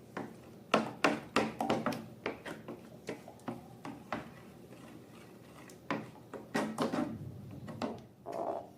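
Slime being squished and stretched by hand, making irregular sticky clicks and wet pops several times a second, with a short run of squeakier squelches near the end.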